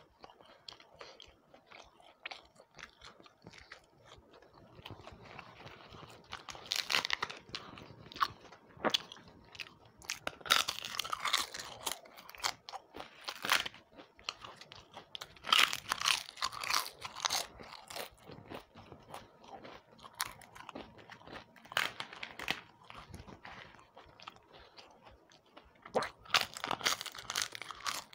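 Close-up chewing with bouts of loud, crisp crunching as fried snacks, papad and pakoda, are bitten and chewed, with quieter mouth sounds in between.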